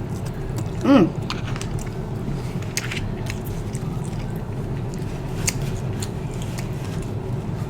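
A person chewing food, with small mouth clicks and faint crunches, over a steady low background hum. About a second in there is one short hummed 'mm' that rises and falls in pitch.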